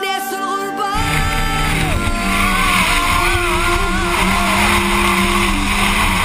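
A drift car heard from inside the cabin, its engine revving with a wavering pitch and its tyres skidding through a corner, taking over from music about a second in.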